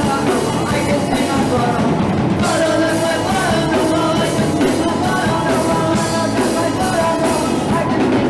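Punk rock band playing a song live, loud.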